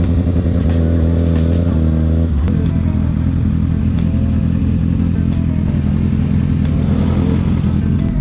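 Sportbike's inline-four engine running under way at a steady pitch. About two seconds in the note changes and runs on rougher.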